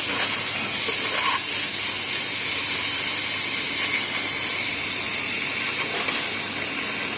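Cutting torch on a robotic cutting machine hissing steadily as it cuts through 35 mm steel plate.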